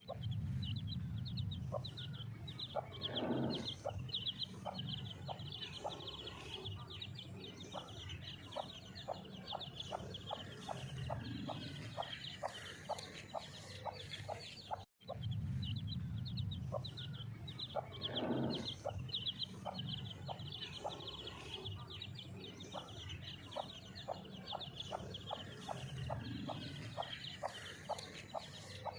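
Aseel hen clucking in short, regularly spaced notes while her chicks peep rapidly and continuously in high chirps. The sound cuts out briefly about halfway, then the same clucking and peeping pattern repeats.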